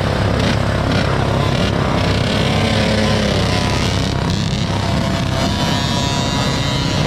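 Motocross dirt bike engines running, mixed with music playing.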